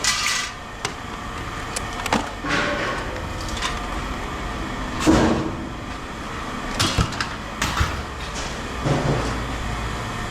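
Irregular clanks and knocks of scrap metal being handled, over a steady low rumble.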